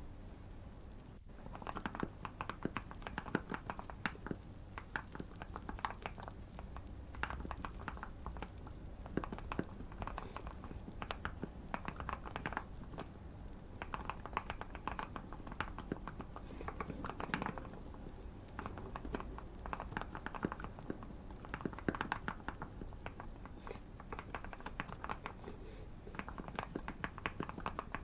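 Typing on a Keychron Q1 mechanical keyboard with Fierce Girl switches, C3 Equalz stabilisers, and tape and PE foam mods, giving a muted, thocky keystroke sound. It comes in runs of quick keystrokes broken by short pauses.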